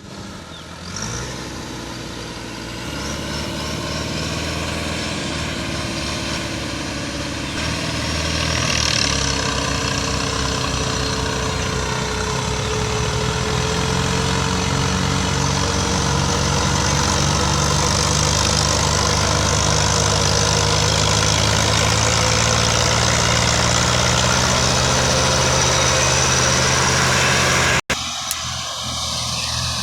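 Tractor engine running steadily, getting louder over the first several seconds and then holding even, with a sudden brief dropout near the end.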